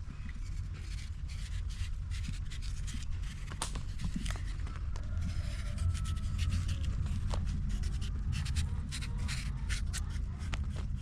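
Irregular scraping and scratching, with many short clicks, over a steady low rumble.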